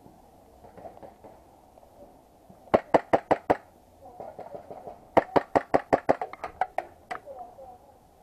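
Airsoft pistol shots fired in quick strings: about six sharp shots in under a second, then about ten more a couple of seconds later, and one last single shot.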